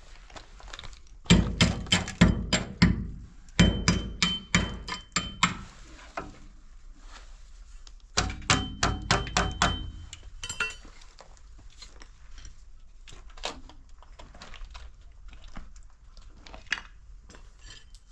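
Hammer blows in three quick runs of about four or five strikes a second, some with a metallic ring, and lighter scattered knocks between them.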